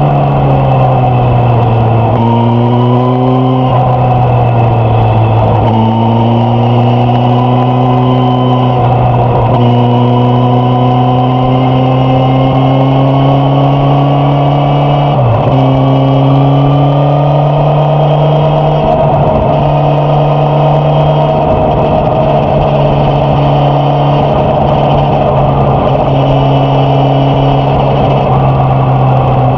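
Suzuki GSX-S1000F's inline-four engine and exhaust running under way on the road, loud and steady, the engine note drifting slowly in pitch and dipping sharply for a moment several times before picking up again.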